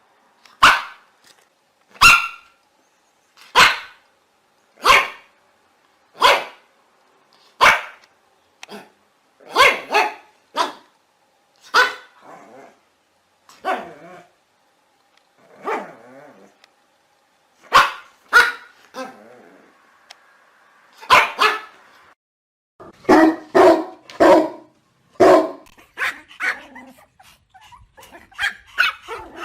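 Small dog barking in short, separate barks, mostly about one every one to one and a half seconds, with a quicker run of barks about two-thirds of the way through.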